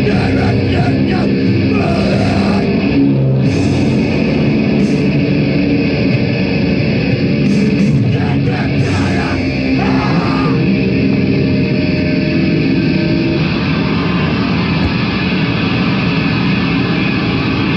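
A live heavy metal band playing a loud, dense passage with distorted guitar, without a break.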